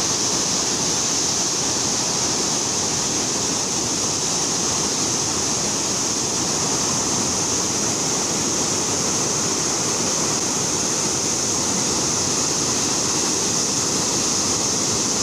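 Loud, steady rush of fast-flowing floodwater, an even roar of moving water.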